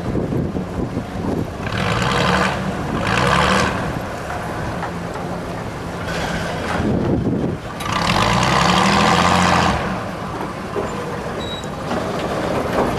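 A ferry's engine running, its low drone shifting in pitch. Four loud bursts of rushing, hissing noise come over it, about two, three and a half, six and a half, and eight to ten seconds in.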